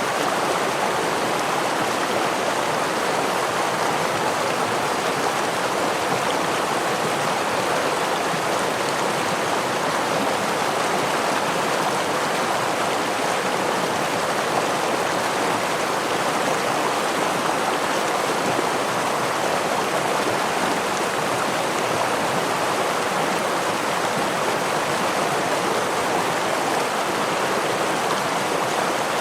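Running water of a forest stream and waterfall, a steady, even rush with no breaks.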